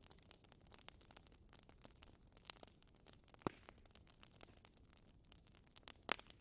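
Wood fire crackling: a quick, irregular run of small pops and ticks, with a sharper snap about three and a half seconds in and a brief cluster of louder pops near the end.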